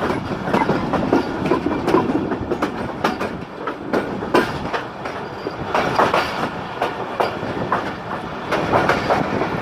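Passenger train coaches rolling past, their wheels clattering over rail joints with a steady rumble and irregular sharp clicks.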